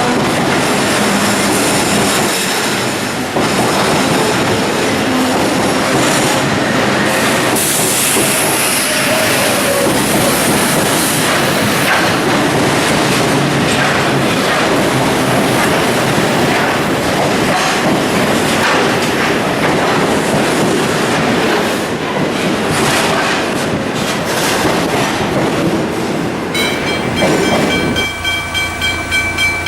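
A train running close by: a continuous loud rumble of wheels on rails with clickety-clack and some wheel squeal. Near the end it gives way to a steady ringing tone that pulses several times a second.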